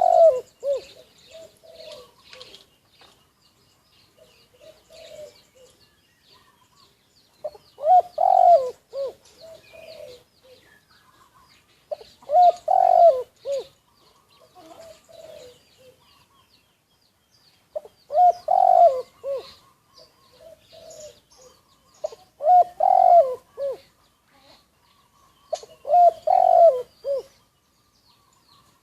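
Spotted dove cooing: six loud phrases of several coos each, a few seconds apart, with softer trailing coos between them. Faint high chirping of small birds runs underneath.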